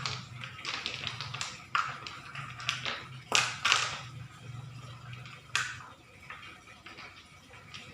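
Small stones clicking and knocking against each other and a plastic toy dump truck as they are handled and loaded: a handful of sharp knocks spaced irregularly, with a quick pair about halfway through.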